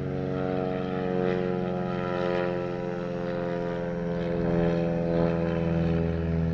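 Kubota BX23S subcompact tractor's diesel engine running at a steady speed.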